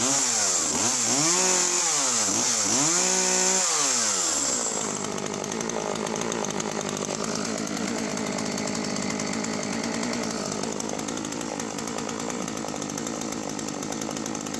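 Husqvarna 41 two-stroke chainsaw revved up and down three times, then held at a steady, slightly lower pitch under load as it cuts wood, for about ten seconds.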